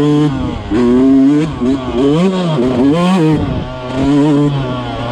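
Yamaha YZ125 two-stroke dirt bike engine revving, its pitch rising and falling over and over in several quick swells.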